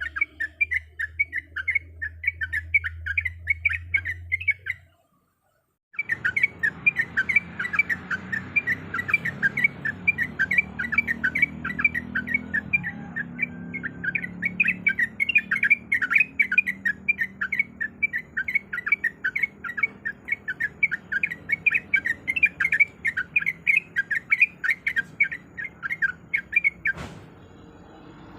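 Yellow-vented bulbul (trucuk) singing in an unbroken fast chatter of rapidly repeated notes. The sound drops out to silence for about a second some five seconds in, then resumes. A single sharp click comes near the end.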